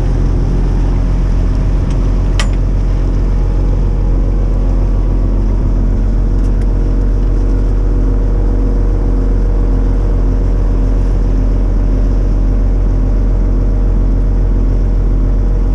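Sailboat's inboard engine running steadily while motoring, a loud even low drone with a fast regular pulse. A single sharp click sounds about two seconds in.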